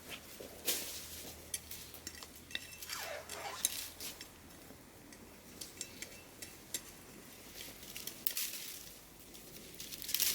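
Scraping and irregular sharp clicks and clinks of a hand tool working soil while garlic cloves are planted.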